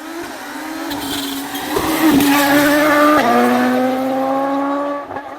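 Rally car engine at full throttle, growing louder as it approaches, with its pitch stepping down sharply about three seconds in, then running steadily until it fades near the end.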